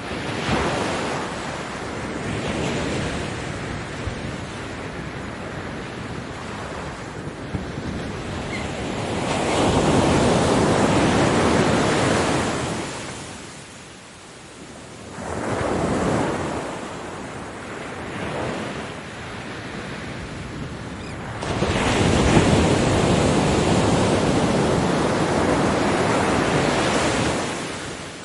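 Ocean waves breaking and washing up a beach in long surges of noise. A larger wave breaks about a third of the way in, a short one follows a few seconds later, and the loudest runs through most of the last quarter before fading.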